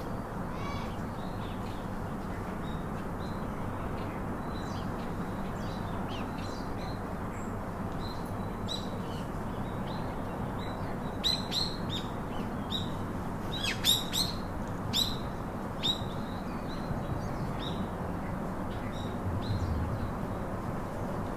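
Short, sharp bird chirps, a few scattered at first, then a quick run of them in the middle, over a steady background hiss.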